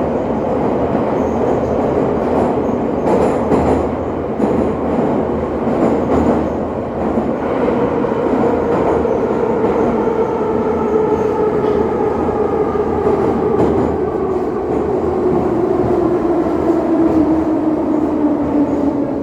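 The inside of a moving electric passenger train: a steady rumble of wheels on rails. Over the second half, the traction motors' whine falls steadily in pitch as the train slows.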